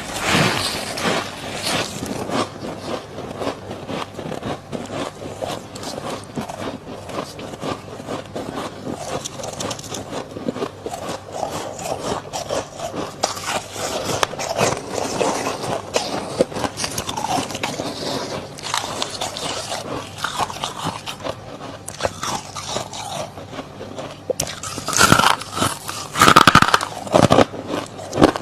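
Freezer frost being scraped and crunched close to the microphone: a dense run of small crackles and scrapes, with louder crunching bites near the end.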